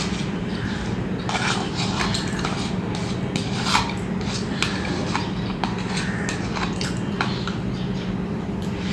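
Close-miked eating sounds: chewing, with irregular small clicks, crackles and scrapes of food and fingers against a plate, over a steady low hum.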